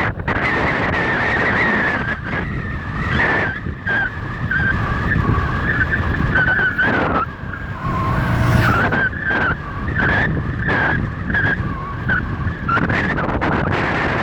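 Riding noise from a moving road bicycle: a steady low rumble of wind and tyres on the road, with a wavering high whine and frequent short rattles from bumps.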